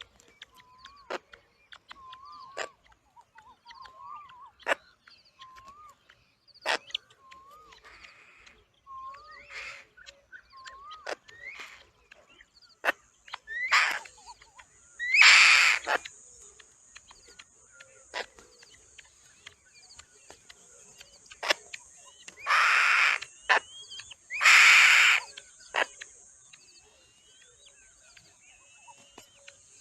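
Birds calling: a short call repeated about every three-quarters of a second, then several loud, harsh, hissing screeches, two pairs some eight seconds apart.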